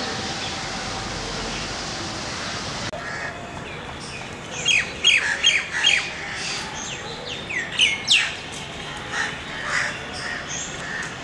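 Birds calling: a quick string of short, sharp, falling calls starting about four and a half seconds in, then a longer falling call about eight seconds in and a few softer calls after it, all over a steady background hiss.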